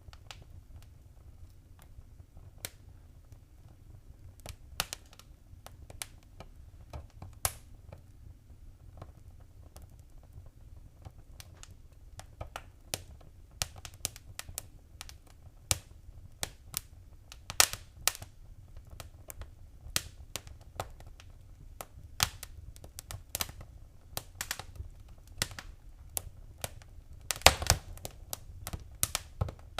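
Fire crackling in a fireplace: irregular sharp pops and snaps over a low steady rumble. The pops are sparse at first, grow busier from about halfway, and come as a dense, loud cluster near the end.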